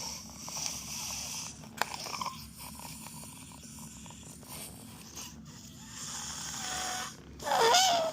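Air escaping from a rubber balloon's stretched neck, first as a raspy sputter and then, near the end, as a loud wavering squeal.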